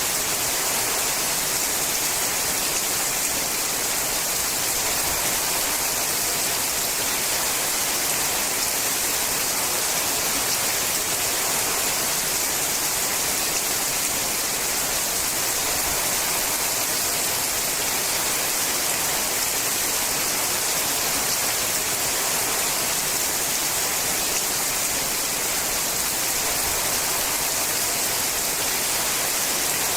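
Rain falling steadily on a sheet-metal roof: an even, unbroken hiss with no single drops standing out.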